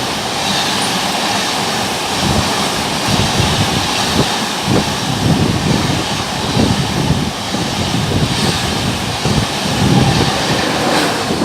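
Passenger train of LHB coaches running through at speed: a steady loud rushing noise with an uneven low rumble of wheels on rail.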